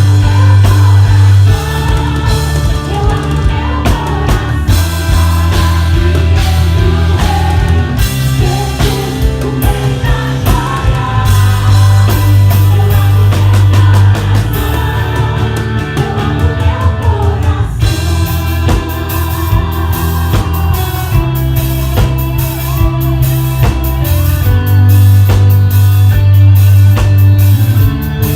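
A live gospel band playing a rock-style song: a voice singing over electric guitar, bass guitar and drum kit, with the bass notes changing every couple of seconds.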